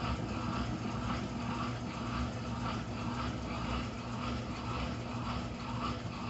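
Brastemp Intelligent 7 kg top-loading washing machine (BWQ24B) running late in its cycle: a steady motor hum with a faint, regularly pulsing whoosh above it.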